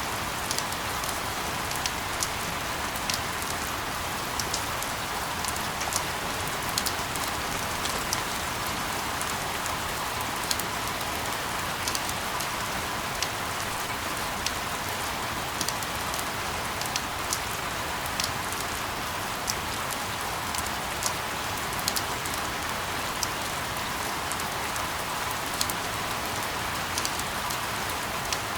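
Steady rain falling on a surface: an even hiss with scattered sharp ticks of single drops.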